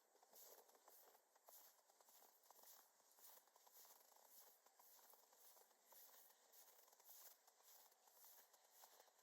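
Faint footsteps crunching in snow at a steady walking pace.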